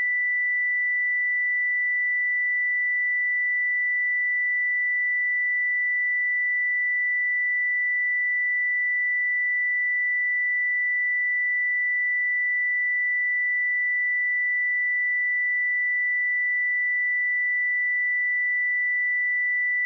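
A steady pure sine-wave test tone at 1976 Hz, a single high-pitched note held at constant level with no change.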